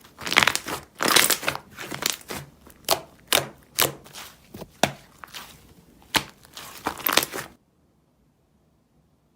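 Vanilla butter slime being squished and pressed by hand, giving irregular crackly, sticky squelches of varied loudness. They stop abruptly about seven and a half seconds in, leaving near silence.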